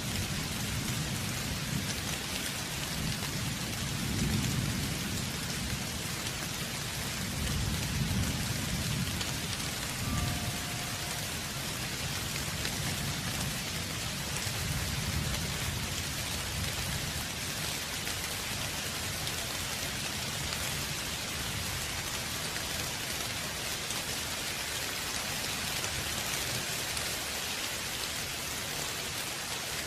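Steady rain falling, with low rumbles of distant thunder swelling a few times in the first ten seconds or so, then settling back to the even hiss of the rain.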